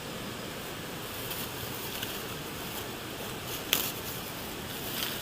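Steady drone of rainforest insects, with a few faint clicks and one sharp click about three and a half seconds in.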